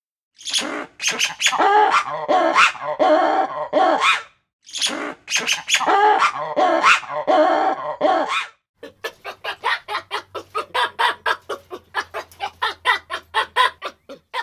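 Animal calls: two bouts of dense, wavering pitched calls, about four seconds each, then a quick run of short sharp calls, several a second, for about five seconds.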